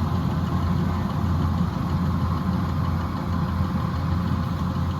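Kubota combine harvester's diesel engine running at a steady speed, a continuous low hum with a constant mechanical drone above it.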